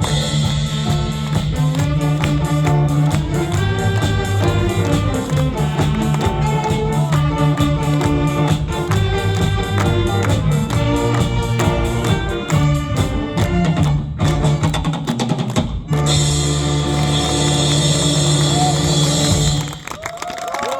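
Saxophone big band playing an upbeat trot medley over a drum kit, closing on a long held chord with a cymbal wash that cuts off about a second before the end.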